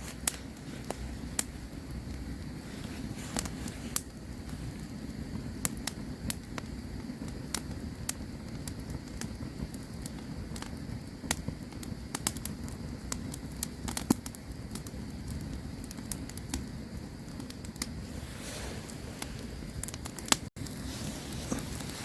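Campfire crackling: irregular sharp pops and snaps over a steady low rumble of the burning fire. The sound cuts out for an instant near the end.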